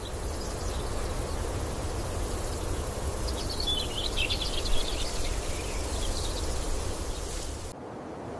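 Countryside outdoor ambience: a steady hiss over a low rumble, with a cluster of short high chirps in the middle. The background changes abruptly shortly before the end.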